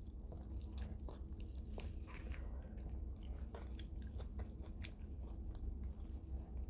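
Close-up chewing of extra-crispy KFC fried chicken: scattered small crisp cracks of the breading over a steady low hum.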